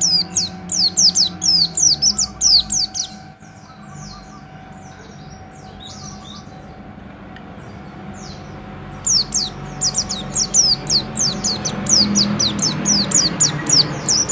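Pleci (bustomi white-eye) singing in fast runs of high, downward-slurred shot-like notes, about five a second, breaking off after about three seconds into softer scattered notes, then starting another long fast run about nine seconds in.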